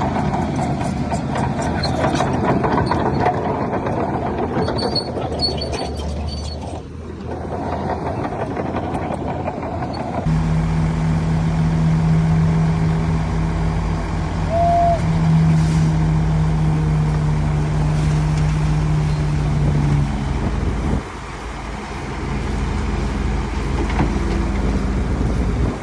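Heavy diesel earthmoving machinery running, loud and rough at first, then a steady low engine hum from about ten seconds in; the sound changes abruptly twice.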